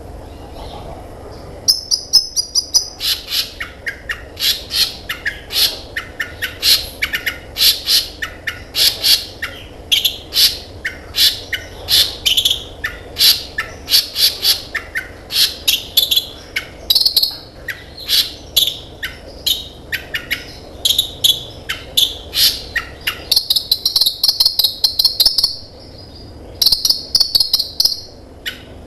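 A kolibri ninja sunbird singing a fast, continuous string of sharp, high chirps, with buzzy trills later on and a short break near the end.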